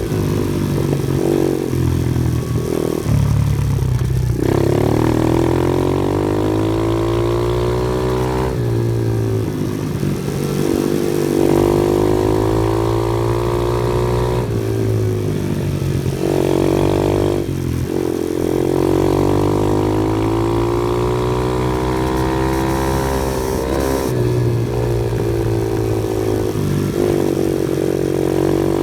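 Off-road vehicle engine working hard, its pitch climbing and falling again and again as the throttle is opened and let off, over a steady low hum.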